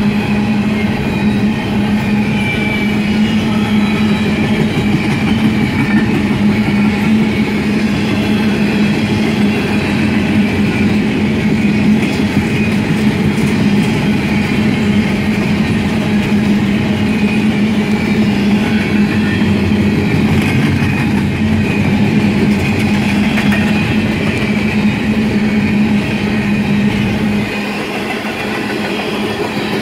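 Empty TTX double-stack intermodal well cars rolling past at close range: a steady rumble of wheels on rail with a constant low hum, easing off slightly near the end.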